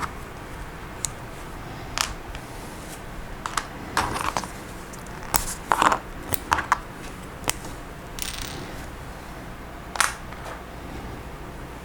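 Hard plastic Lego Technic pieces being pulled apart and dropped onto a pile: irregular sharp clicks and short clatters, with a brief soft rustle about eight seconds in.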